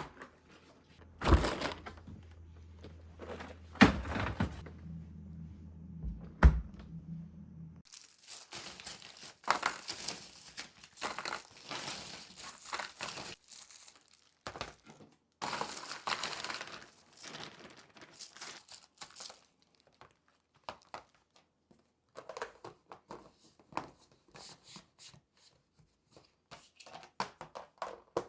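Plastic grocery packaging crinkling and rustling as items are unpacked and handled, with three sharp knocks in the first seven seconds. A low hum runs underneath until it stops about eight seconds in.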